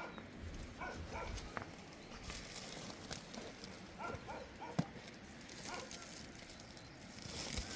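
Animal giving short calls several times over a steady noisy background, with a sharp knock about five seconds in.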